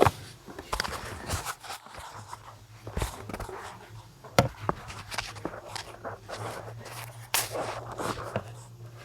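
Scattered clicks, knocks and light scrapes of hands handling equipment, over a faint steady low hum.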